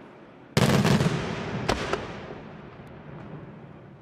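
Aerial fireworks shells bursting: a loud bang about half a second in with a brief run of crackles, a second sharp bang about a second later, then the echoing rumble fades away.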